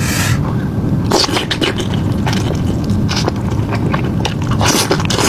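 Close-up crunchy biting and chewing of crisp food, a rapid run of sharp crackles and crunches over a steady low rumble.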